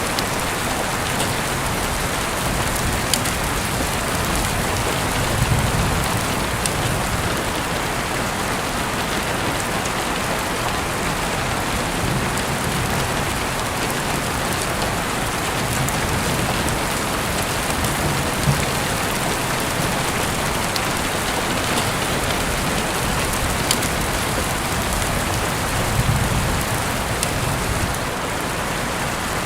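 Steady rain falling on a surface, an even hiss with scattered drop sounds and a few faint sharp clicks. Soft low rumbles swell now and then, loudest about five seconds in and again near the end.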